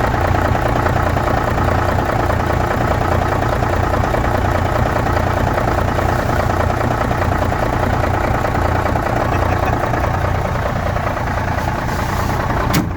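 Diesel engine of a Mercedes-Benz SK 2527 truck idling steadily, with a single sharp click near the end.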